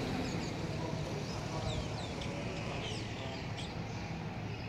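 Small birds chirping in short, quick sweeping notes, scattered through the first few seconds, over a low steady hum.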